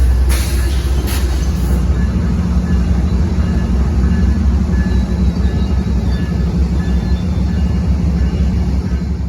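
A train running past with a steady engine drone and rail noise, heavily buffeted by wind on the microphone. The drone stops abruptly at the end.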